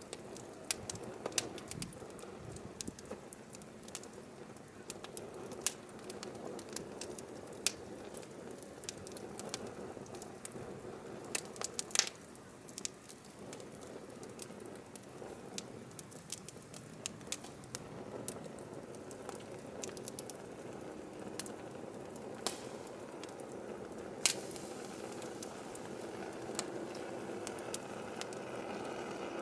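Firewood burning with frequent sharp crackles and pops over a steady low hiss of flame, with one louder pop about twelve seconds in.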